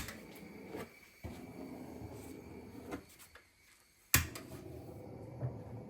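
Gas lighter being clicked and its flame hissing. A sharp click at the start, a stretch of steady hiss that stops about three seconds in, then a second sharp click about four seconds in and the hiss starts again.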